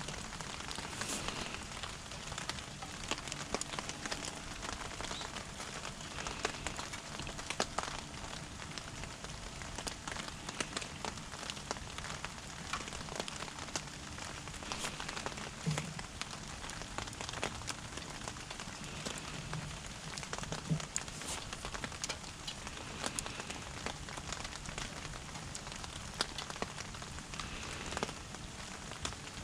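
Rain falling steadily, a soft even patter with many small irregular drip ticks.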